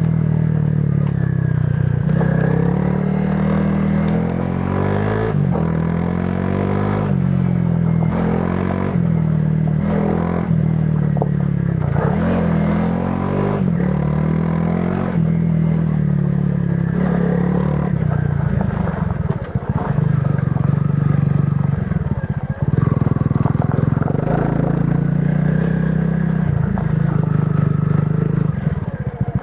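Honda CRF300 Rally's single-cylinder engine running through its stock exhaust while riding off-road. The engine note steps up and down as the throttle and gears change, with scattered knocks and rattles from the bike.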